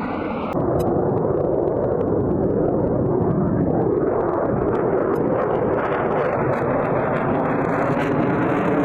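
Loud, steady jet noise from an F-22 Raptor's twin turbofan engines as the fighter flies its demonstration; the sound jumps louder about half a second in.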